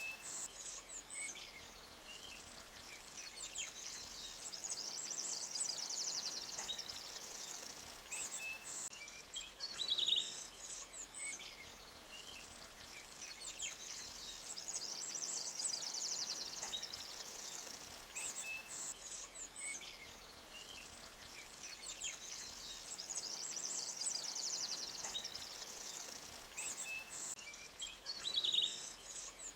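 A forest stream gently flowing over rocks as a soft steady rush, with birds chirping and trilling over it; the loudest are short calls about ten seconds in and again near the end.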